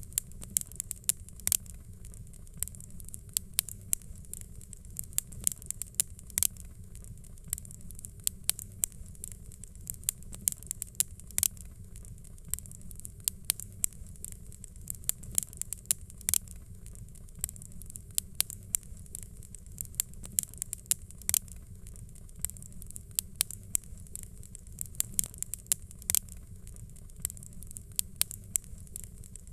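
Fireplace fire crackling: frequent sharp pops and snaps, several a second, over a steady low rumble.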